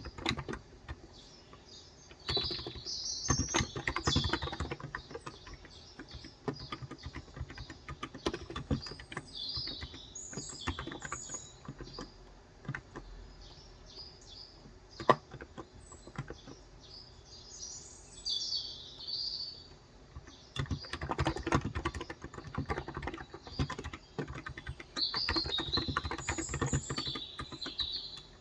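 Typing on a Cox Endeavour tenkeyless keyboard with 35 g electro-capacitive (non-contact) switches: runs of rapid keystrokes broken by short pauses. Small birds chirp over it at intervals.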